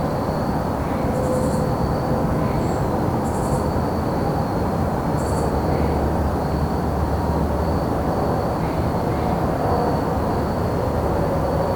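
Evening woodland ambience: crickets trilling steadily on one high note, with three short, higher buzzing insect chirps about two seconds apart in the first half. Underneath runs a steady low rumble of distant traffic.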